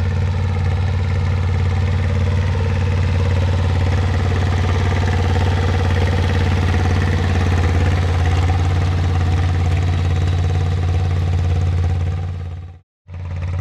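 Small garden tractor engine running steadily, fading into a brief dropout near the end.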